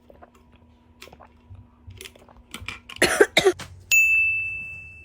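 A person coughing a couple of times, then a single high, bright ding that rings out and fades over about a second.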